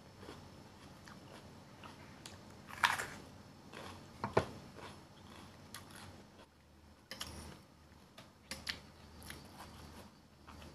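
Close-up crunching bites into a raw yellow bell pepper, then chewing. The two loudest crunches come about three and four and a half seconds in.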